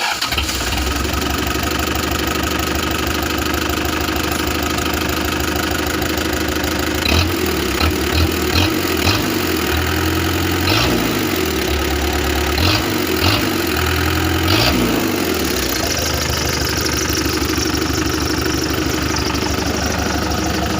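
Isuzu Panther 2.5 litre diesel engine, swapped into a Jeep CJ7, idling with a diesel clatter. It is blipped several times in the middle with quick rises and falls in pitch, then settles back to a steady idle.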